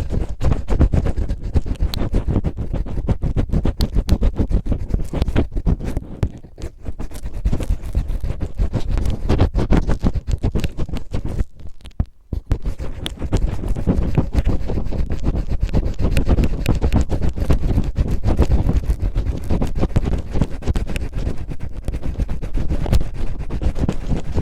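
Cellophane crinkled and rubbed roughly against a microphone in imitation of ear cleaning, giving a dense crackling and scratching that eases off briefly about six and twelve seconds in.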